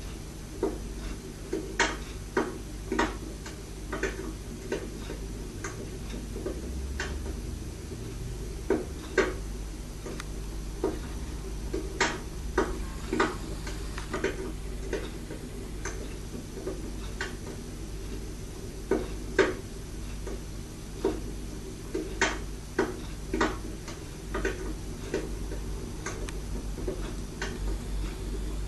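EWT fireplace insert giving off fire crackle: irregular sharp pops and clicks, sometimes several a second, over a steady low hum.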